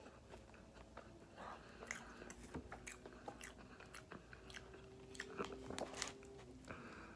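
Close-miked mouth chewing and biting food, with scattered soft wet clicks and small crunches.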